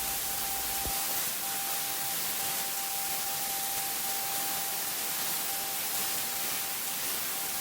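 Abrasive blasting nozzle hissing steadily as blast media is sprayed at a machine's bodywork to strip it, with a thin steady whistle underneath.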